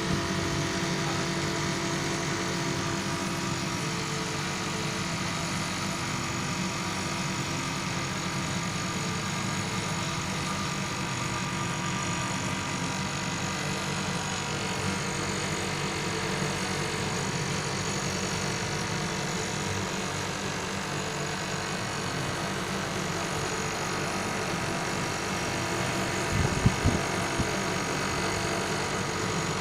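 Air conditioner running: a steady mechanical hum with several held tones, and a couple of brief knocks near the end.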